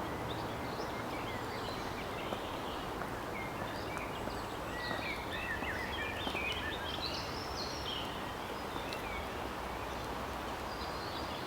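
Birds chirping in short scattered calls over steady background noise.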